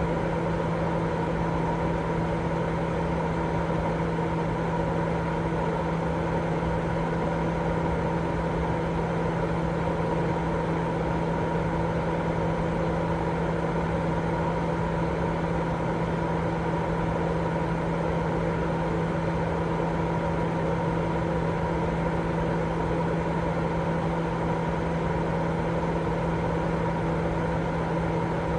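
Continuous sleep white noise: an even, unchanging rushing hiss with a steady low hum running through it.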